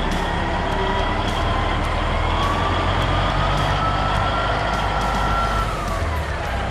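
Peterbilt 359 truck's diesel engine running steadily, with a whine that rises slowly, holds, then drops away near the end.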